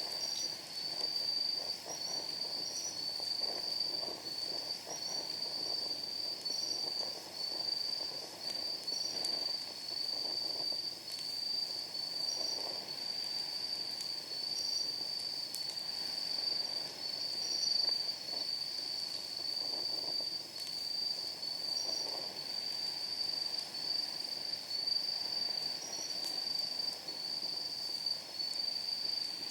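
Night insects, cricket-like, trilling steadily in a high pitch with a faint pulse about once a second. Under them, firewood burning in a steel fire pit gives a soft rushing and occasional faint crackles.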